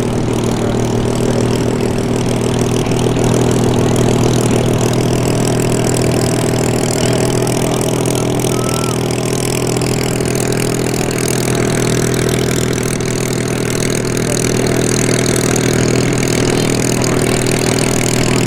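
Formation of Spitfire and Hurricane fighters flying past, many piston aero engines blending into one steady, loud drone.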